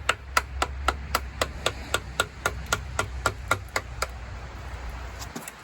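A rapid, even series of hammer taps on the Case 188D diesel engine's front cover, about four a second, working it loose from the engine block. The taps stop about four seconds in. A steady low hum runs underneath and cuts off near the end.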